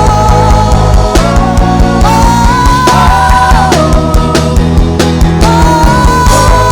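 Live worship band playing a loud, full rock-style backing with steady drums and sustained keyboard or guitar chords that change every second or two.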